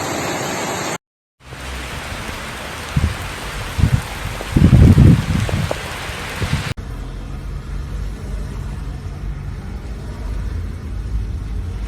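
Heavy rain and rushing floodwater making a steady loud noise, cut across several clips, with a few loud low thumps in the middle.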